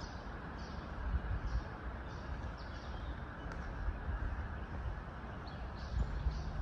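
Outdoor ambience before any playing: short high bird chirps repeating every half second or so over a steady low rumble and hiss.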